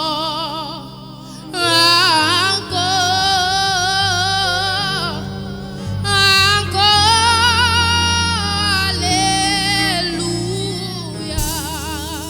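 Yoruba worship song: a solo singer holding long, melismatic notes with wide vibrato over a steady low accompaniment.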